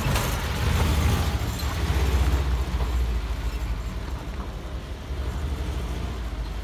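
Air-cooled V4 engine of a ZAZ Zaporozhets running with a steady low drone that eases slightly after about three seconds. It is an engine the occupants say doesn't pull.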